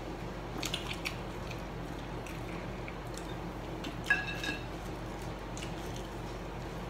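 People chewing and handling fried chicken nuggets, with a few soft clicks and a short sharp sound about four seconds in, over a steady low hum.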